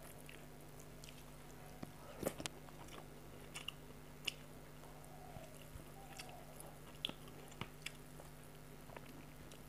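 Soft chewing and mouth clicks of someone eating rice and fried fish by hand, picked up close by a lapel mic. Scattered short clicks, the sharpest a little over two seconds in, over a faint steady hum.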